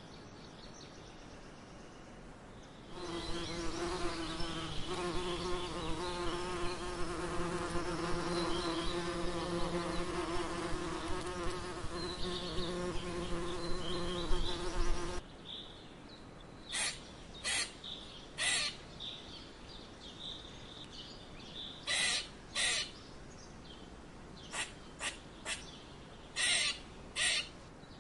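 An insect buzzing steadily for about twelve seconds, starting a few seconds in and cutting off suddenly. Then about a dozen short, sharp calls or clicks follow at irregular intervals.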